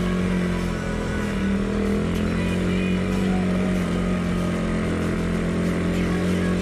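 Motorcycle engine running steadily under way, holding a fairly even pitch.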